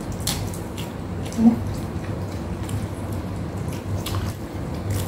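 Close-up eating sounds: chewing deep-fried tilapia, with soft clicks and lip smacks and a brief hummed "mm" about a second and a half in, over a low steady hum.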